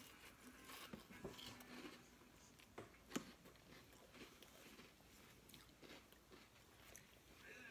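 Faint chewing of food close to the microphone, with a few light clicks and ticks, the sharpest a little past halfway.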